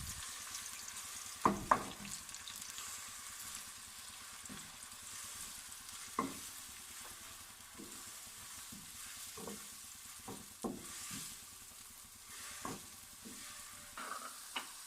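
Garlic and onion paste sizzling steadily in hot oil in a karahi as it is stirred, with occasional knocks and scrapes of the stirring utensil against the pan, two sharper knocks about one and a half seconds in. The paste is being fried to a light brown.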